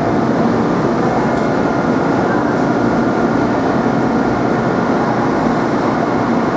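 Passenger train running at speed, a steady loud rumble of wheels on the track and carriage noise.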